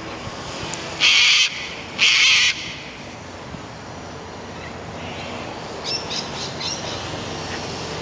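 Two loud, harsh caws from a crow-like bird, about a second apart, each lasting about half a second. Later come a few quick, high chirps from smaller birds, all over a steady low rumble of wind.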